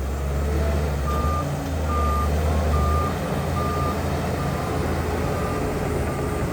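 Reversing alarm on a heavy earthmoving machine, sounding a steady series of short beeps about once every 0.8 s, starting about a second in. Under it runs the deep, steady rumble of a diesel engine.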